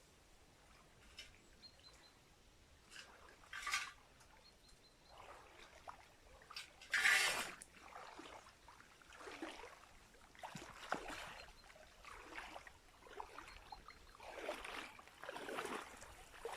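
Water sloshing and trickling in a shallow, stony stream bed as a find is dug out of the bottom, in irregular splashes and scrapes, the loudest about seven seconds in.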